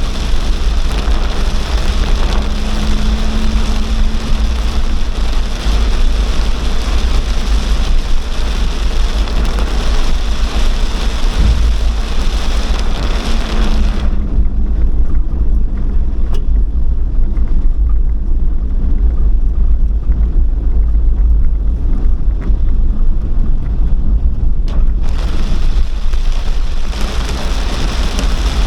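Torrential rain pouring down as a dense hiss over a constant deep rumble. About halfway through the hiss of the rain falls away for some ten seconds, leaving mostly the rumble, then comes back.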